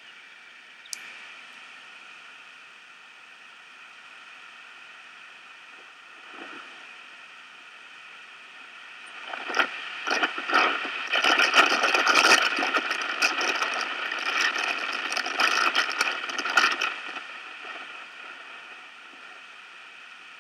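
Strong wind gusting against the nest camera's microphone in high winds. Rough buffeting with crackles swells through the middle and eases off near the end, over a faint steady hiss and hum. There is one sharp click about a second in.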